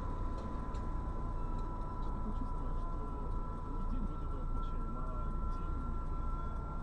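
Steady low rumble of a car heard from inside the cabin on a dash cam, with a faint steady electrical whine running under it.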